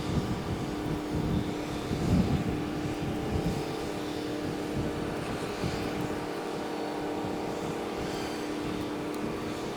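A steady engine hum with low rumbling gusts that ease off after about three seconds.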